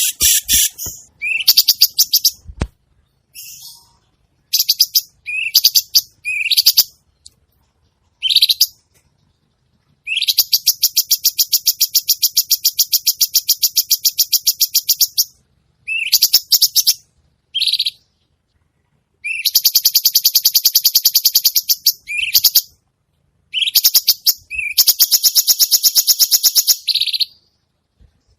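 Songbird giving short rising chirps between long, rapid rattling trills. The longest trill lasts about five seconds. These are harsh 'kasaran' fill-in notes from a bird-song master recording.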